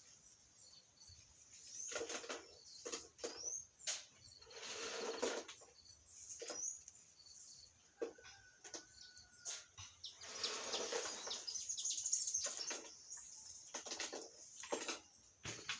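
A kitten playing: repeated bursts of rustling and scratching, each up to a second or so long, with sharp clicks and taps between them.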